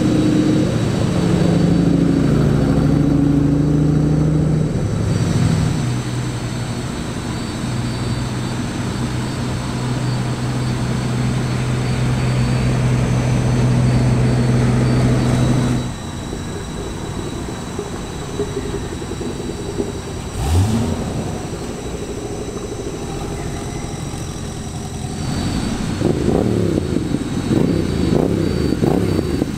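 Car engines running as cars drive slowly past. A steady engine note cuts off suddenly about sixteen seconds in, followed by a short rise in engine pitch, then an uneven, crackly exhaust rumble near the end.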